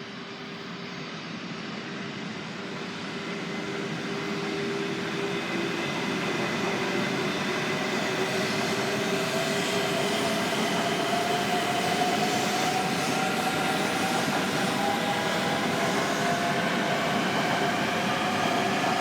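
Joetsu Shinkansen train on the move, its electric motor whine climbing slowly in pitch as it gathers speed. The running noise grows louder over the first five seconds or so, then holds steady.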